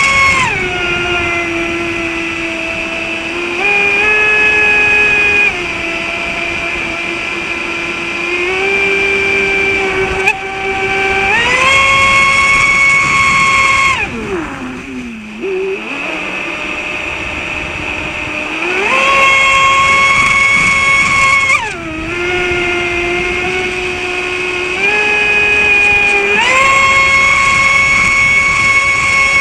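Traxxas Spartan RC boat's brushless electric motor whining under throttle, its pitch stepping up and down between several steady levels as the throttle changes, with a short dip and swoop in pitch about halfway through.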